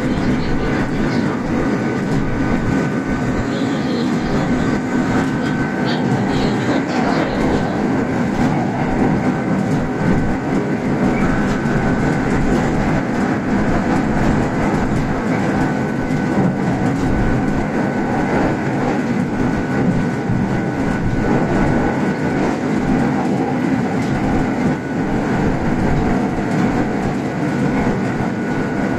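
Kintetsu express electric train running on standard-gauge track, heard from inside the front car: a steady rumble of wheels on rail, with a faint steady whine held on one pitch.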